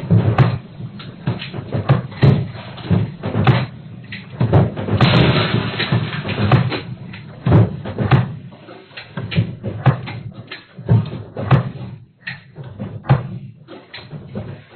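Doors and cupboard doors banging and rattling irregularly, many knocks a second, as a high-rise apartment sways in a strong earthquake; a denser rattle comes about five seconds in.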